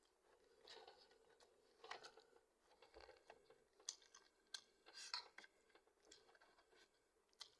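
A person eating close to the microphone: soft crunches, mouth clicks and chewing sounds coming every half second to second, some sharper than others.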